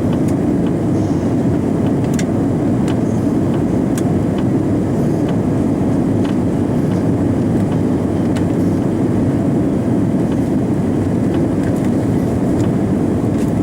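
Steady low rumbling cabin noise inside an Airbus A340-300 airliner, from its four CFM56 engines and the airflow around the fuselage, even in level throughout, with a few faint clicks from the cabin.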